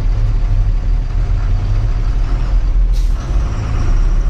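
Truck engine running with a steady low drone, and a short air-brake hiss about three seconds in.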